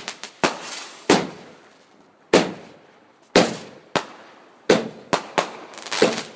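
Fireworks exploding in a rapid, irregular barrage: about nine sharp bangs, mostly a second or less apart, with two in quick succession a little after the middle. Each bang trails off in a short crackling echo.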